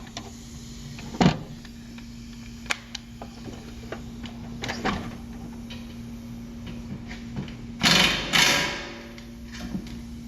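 Hand tools knocking and clinking on metal during work on a car's rear suspension, over a steady low hum. Near the end come two loud, short rasping bursts, back to back.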